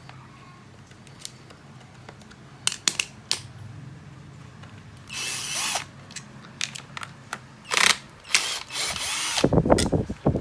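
A few sharp clicks, then several short runs of a small power tool, likely used to remove screws while the cordless drill's housing is taken apart. Heavy low thumps come near the end.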